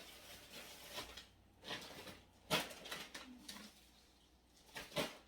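Small knocks and rustles of food containers and jars being handled and set down on refrigerator shelves, with a few sharper clicks about a second in, around two and a half seconds, and near the end.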